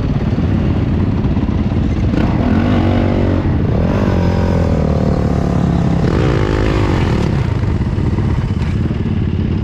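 Motocross dirt bike engine running loudly, its revs rising and falling several times in the middle.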